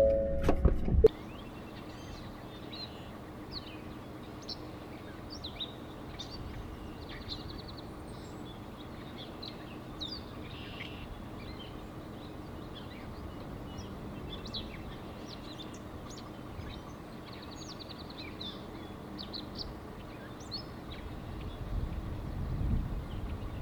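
Songbirds chirping and singing: many short, high chirps and whistles over a steady low outdoor background. A brief tail of music cuts off about a second in, and a low rumble swells near the end.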